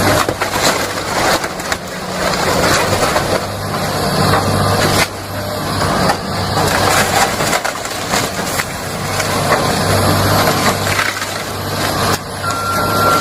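Hydraulic excavator demolishing a house: crunching and cracking of breaking walls and timber with falling debris, over the machine's engine running. A steady alarm beep sounds near the end.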